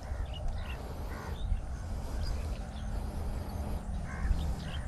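Short, scattered bird calls over a steady low rumble of wind on the microphone.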